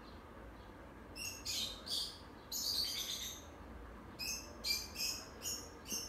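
Small bird chirping: a loose series of short, high calls starting about a second in, the loudest sound here, over the faint steady running of a KDK B56X5 industrial ceiling fan.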